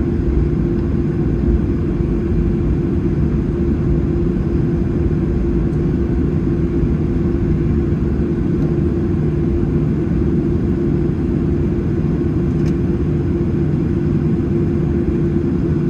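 Steady low drone inside the cabin of a Boeing 737-800 taxiing, its CFM56 jet engines at idle, with a constant hum under it.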